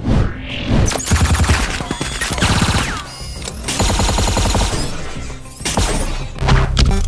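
Cartoon fight sound effects: dense, rapid clattering volleys and crashes layered over electronic music, with the music coming to the fore near the end.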